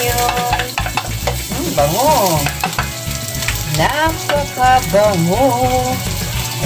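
Garlic, ginger and sliced onions sizzling in hot oil in a frying pan as the onions are scraped in from a plate with a wooden spatula. Wavering, singing-like tones run over the sizzle, strongest in the second half.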